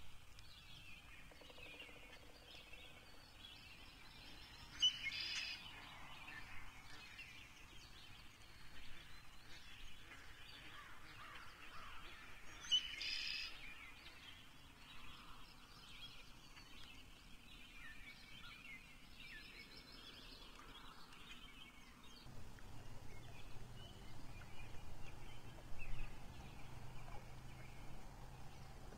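Birds calling and singing faintly, with two louder sharp calls about five and thirteen seconds in. A low steady hum sets in a little after twenty seconds.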